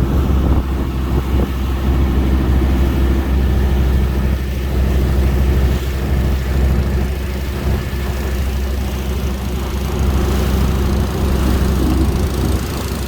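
A tugboat's engine running at a steady pace under way, giving a deep, even drone.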